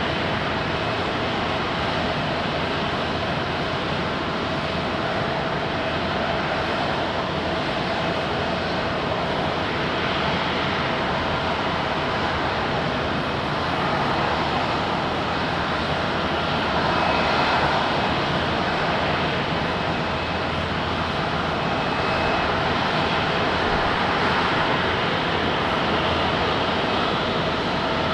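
Airliner engines running: a steady rushing noise with a steady tone through it, swelling slightly about two-thirds of the way through.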